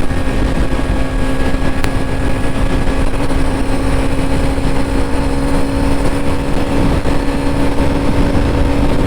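Husqvarna Svartpilen 250's single-cylinder four-valve engine holding a steady high-revving note at about 120 km/h in fifth gear, the bike pulled near its top speed. Heavy wind rush over the microphone runs under it.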